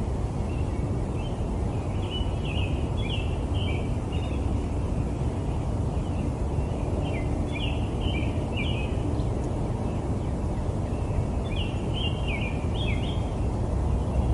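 Steady low rumble of city ambience, with a bird giving three bursts of short, quick chirps over it.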